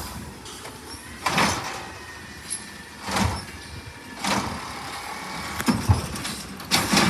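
Recycling garbage truck running, with a series of short noisy bursts every second or so.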